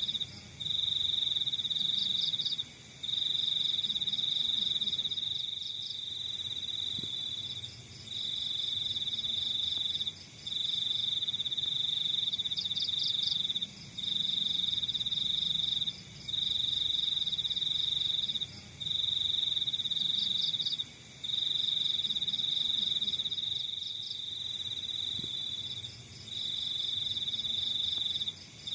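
Crickets trilling: one high-pitched trill in runs of one to three seconds, broken by short pauses, with a second, fainter pulsed chirping above it.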